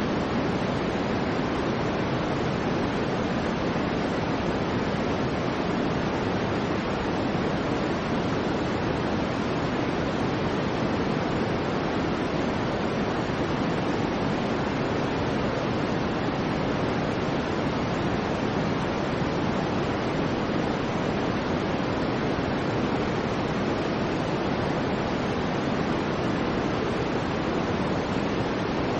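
Soft white noise for baby sleep: a steady, even rushing hiss, fuller and deeper in the low end than in the treble, with no change in level or character.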